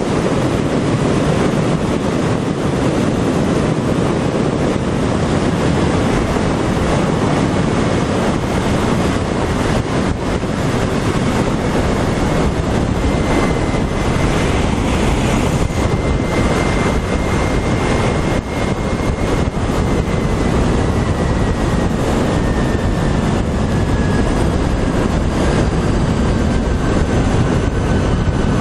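Wind rushing over the microphone and road noise while riding a LITO SORA electric motorcycle at speed, with no engine sound. A faint high whine from the electric drive comes in about halfway through and slowly drops in pitch.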